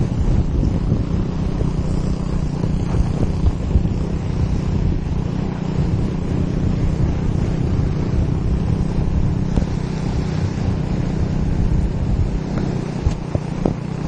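Heavy wind buffeting on the microphone over a motorbike engine running steadily.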